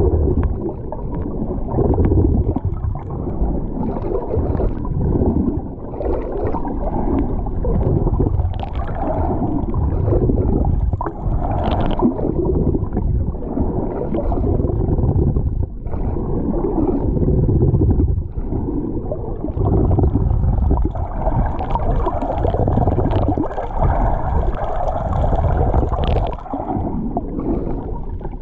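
Sea water sloshing and gurgling, heard muffled with a heavy, surging low rumble and little treble.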